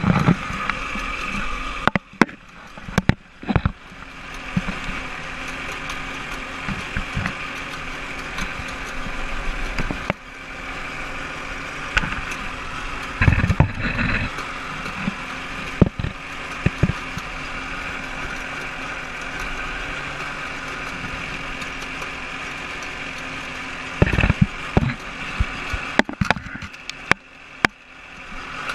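OMC Cobra sterndrive boat engine idling steadily, with scattered knocks and clicks over it.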